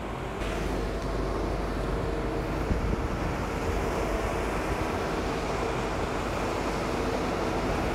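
Steady aircraft ramp noise, a hum like a running auxiliary power unit or nearby jet engines, mixed with wind noise on the microphone. It grows louder about half a second in, then holds steady.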